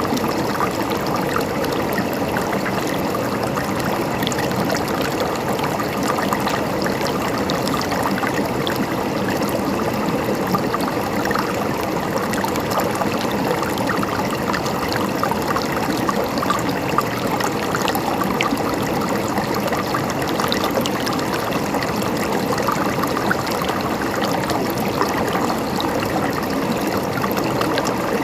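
River water flowing steadily over stones, a continuous gurgling babble.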